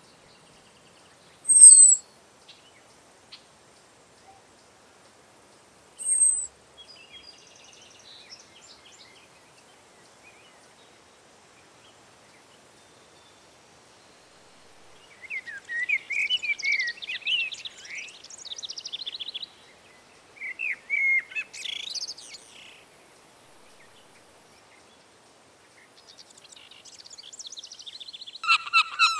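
Wild birds calling and singing: two sharp, very high falling calls, then a bird's warbling song about halfway through, and near the end a burst of loud, rapid, repeated calls.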